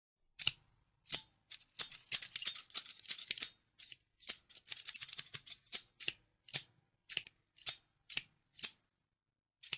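Scissors snipping: a quick flurry of crisp cuts in the first few seconds, then single snips about every half second.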